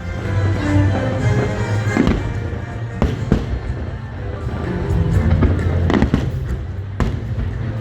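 Fireworks bursting overhead, several sharp bangs about a second apart over a continuous low rumble, with music playing for the show.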